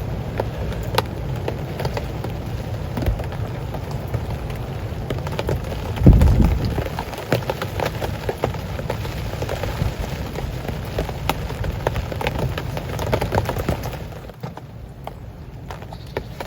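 Heavy rain falling, with many close drops ticking and pattering. There is one loud dull thump about six seconds in, and the rain grows quieter near the end.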